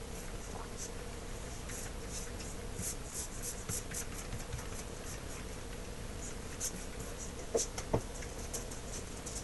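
Paint roller working high-gloss paint onto wood: a faint, irregular crackly ticking, with two short knocks near the end. A steady faint hum underneath.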